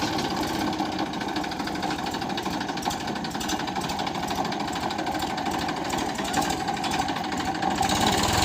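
Tractor's diesel engine running steadily with a fast, even knocking beat.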